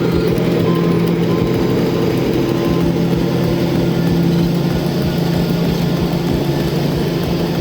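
A heavy vehicle's engine running steadily at an even pitch, with a deep rumble underneath.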